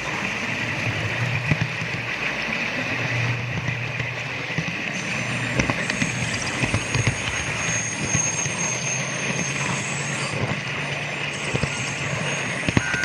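Model train running: a steady motor hum and whirr from the consist, which includes a sound car, with scattered sharp clicks of the wheels over the track.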